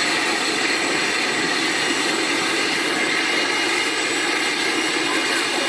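Jet engines of a Boeing 747-400 freighter running steadily, an even rushing sound with a high whine on top.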